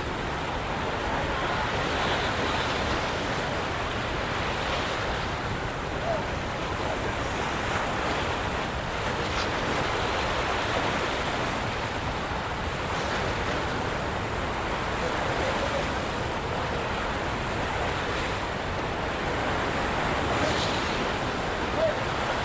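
Steady rush of water pouring through the opened spillway gates of a dam, with wind buffeting the microphone.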